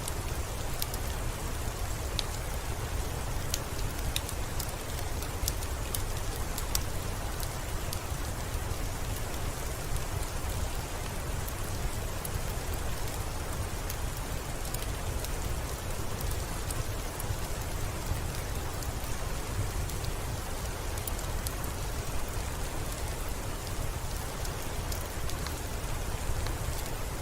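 Steady rainfall with a low rumble underneath and many scattered sharp ticks of drops striking a surface.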